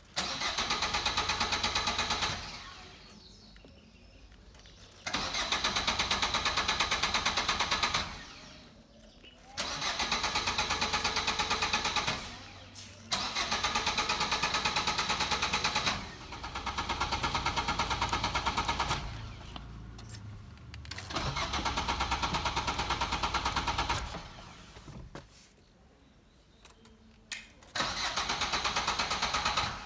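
Car engine cranking on the starter motor without catching, in about seven separate tries of two to three seconds each with pauses between. The owner traced the no-start to a loose battery cable.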